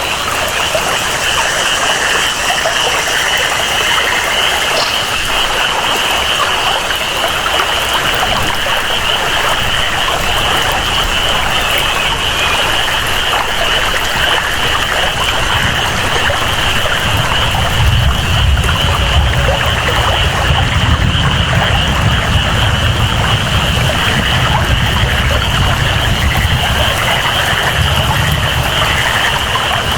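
Rain and flowing water in steady rainforest ambience, with a continuous high-pitched jungle chorus over it. A low rumble joins about halfway through.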